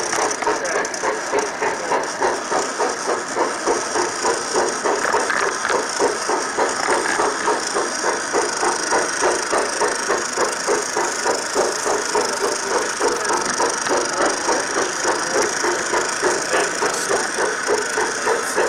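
Garden-scale model train running on its track, with a steady rhythmic clatter of about three beats a second.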